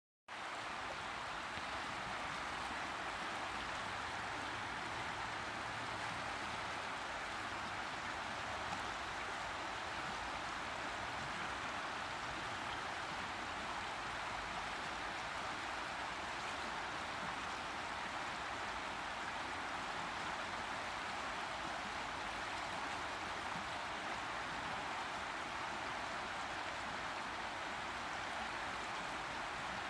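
Boise River flowing: a steady, even rush of running water.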